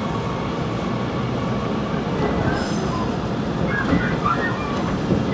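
Sanyo Electric Railway direct limited express train running, heard from inside the passenger carriage: a steady rumble of wheels and running gear, with a few brief higher squeaks about four seconds in.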